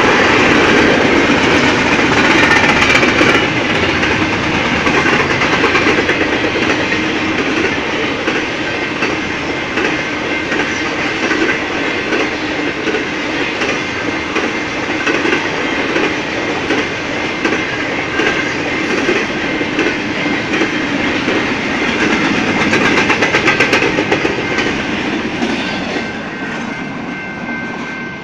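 Freight train of intermodal container cars rolling past at speed: a steady rumble of wheels on rail with clickety-clack over the joints. It eases off near the end as the train moves away.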